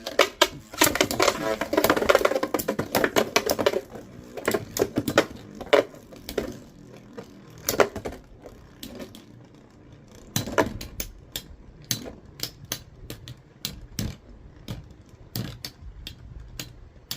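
Two metal Beyblade tops, Galaxy Pegasus and Lightning L-Drago, spinning and clashing in a plastic stadium. There is a busy flurry of collisions at first, then sharp separate clacks as the tops hit each other and the stadium walls.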